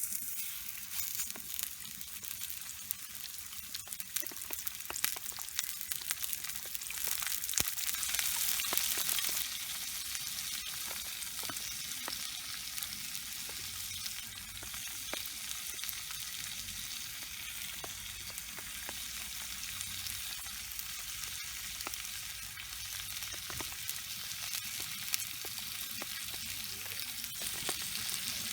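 Food sizzling and crackling in a cast-iron skillet, a steady hiss with many small pops that grows louder for a couple of seconds about a quarter of the way in.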